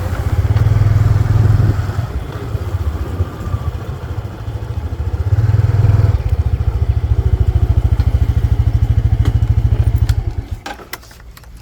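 Small motorbike engine running: it revs up twice, then settles into an even, pulsing putter before cutting off about ten and a half seconds in, followed by a few light clicks.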